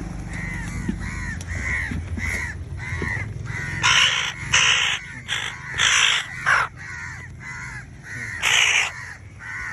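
Crows calling: a quick series of short, arching calls about three a second, broken between about four and nine seconds in by five loud, harsh caws.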